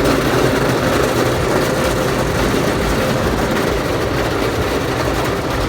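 Automatic car wash machinery running over the car, heard from inside the cabin: a loud, steady rushing noise with a faint steady hum underneath.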